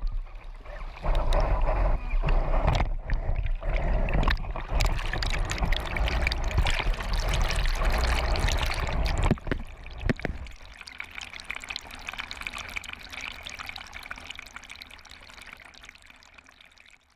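Water splashing and running, with frequent sharp knocks and clicks, fading out gradually over the last several seconds.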